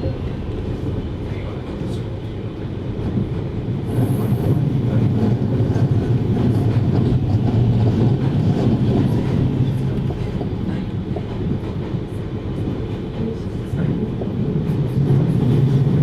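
Running sound of a JR Hokkaido 733 series electric train heard inside the passenger car: a steady rumble of wheels on rail that grows louder about four seconds in, with faint clicks over it.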